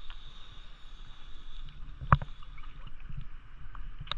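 Water moving around a boat's hull, a steady low wash with small scattered clicks, and one sharp, loud knock about two seconds in.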